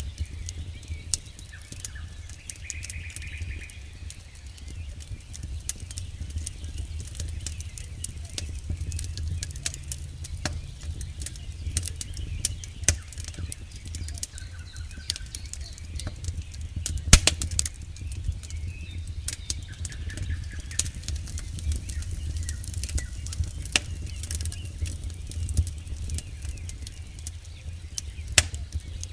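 Campfire burning, crackling with frequent sharp irregular pops, the loudest about 17 seconds in, over a steady low rumble.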